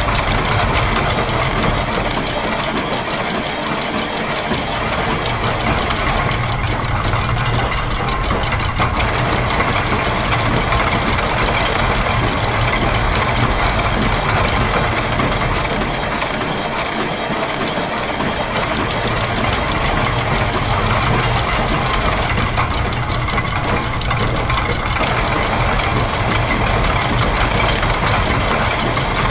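Dense layered loop of factory machine sounds: gear, ratchet, clockwork and press clatter over a steady low mechanical hum, with loops of different lengths giving a shifting rhythm. The highest hiss drops out twice, for a few seconds each time, about 16 seconds apart.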